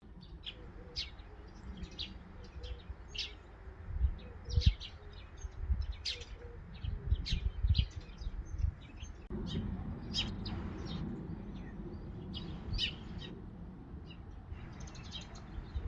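Small birds chirping outdoors: many short, sharp chirps scattered throughout, over a low rumble with a few dull thumps in the middle.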